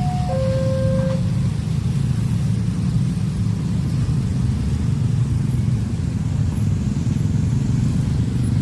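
A level-crossing warning signal alternating between two tones, about a second each, stops about a second in. Under it, the steady low rumble of a long train passing the crossing.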